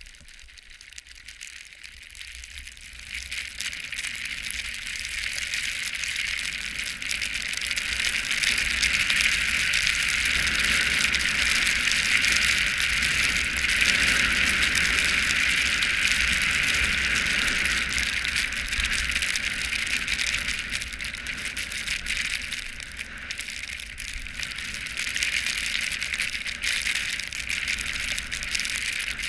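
Steady hiss of sliding down a snowy ski slope. It builds over the first several seconds as speed picks up, holds, eases a little about two-thirds of the way in, then rises again.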